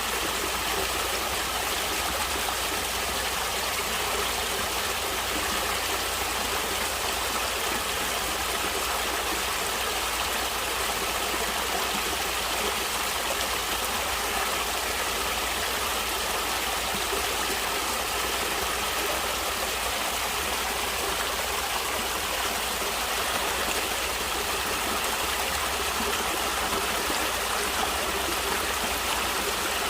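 Stream water flowing and splashing steadily, a continuous rushing hiss with no breaks.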